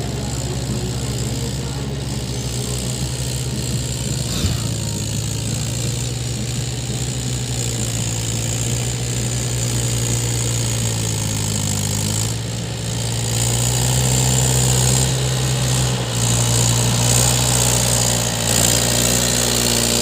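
Mahindra 475 tractor's four-cylinder diesel engine running steadily, growing louder a little past halfway through, with a single sharp click about four seconds in.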